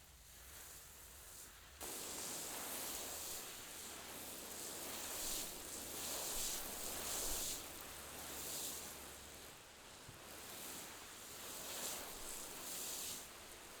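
A rustling hiss that starts abruptly about two seconds in, swells and fades unevenly, and cuts off suddenly near the end.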